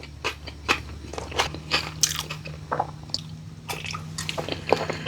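Close-miked biting and chewing of a crunchy snack: a series of sharp, irregular crunches, mouth sounds of eating.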